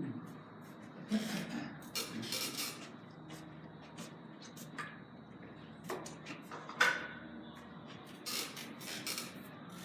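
Hard clicks of carom billiard balls and cue, the sharpest about seven seconds in, among softer knocks and short rustling sounds.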